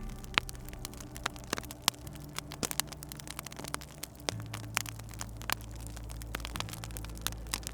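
Wood fire crackling in a fireplace, with frequent irregular sharp pops. Underneath is a soft, low music pad whose held notes change about every two seconds.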